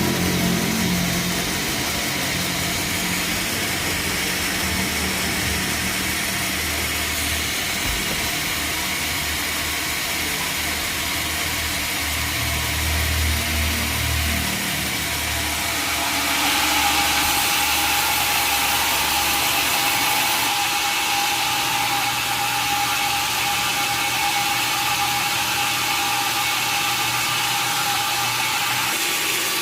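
Sawmill machinery running steadily: a motor hum, joined about halfway through by a steady higher whine.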